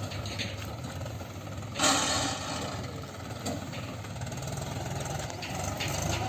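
A heavy diesel engine running steadily, with a short, loud burst of noise about two seconds in.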